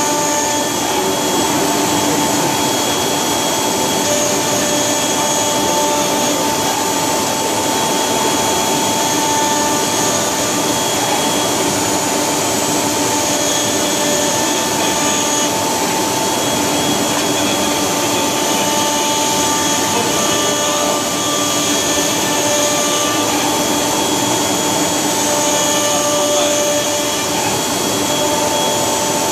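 A loud, steady mechanical whir, an even rush of noise with a few faint steady tones in it, that does not change.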